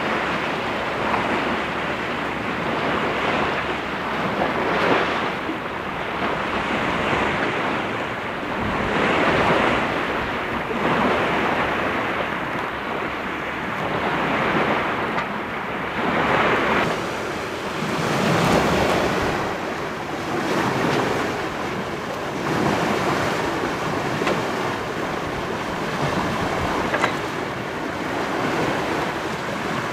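Sea water rushing and splashing along a sailing yacht's hull as it moves under way, swelling and easing every couple of seconds, with wind buffeting the microphone.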